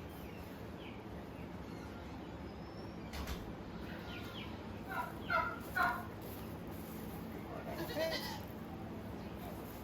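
Goat bleating: two short loud calls about five and six seconds in and a weaker one near eight seconds, over a steady low hum.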